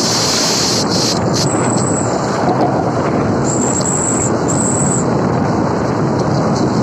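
Heavy truck running, a steady loud rumble of engine and road noise with no break.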